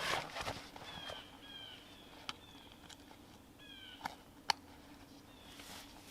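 Birds calling: short downward-sliding chirps repeated in small runs. There is a brief rustle at the start and a few sharp clicks, the loudest about four and a half seconds in.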